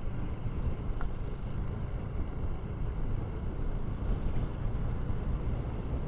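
KTM 390 Duke single-cylinder motorcycle running, heard from the rider's own camera as a steady low rumble mixed with wind buffeting on the microphone.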